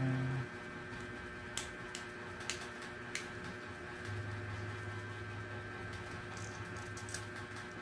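Someone eating quail eggs in a spicy broth: a few faint clicks and smacks of chewing and utensils, with a low steady hum in the second half.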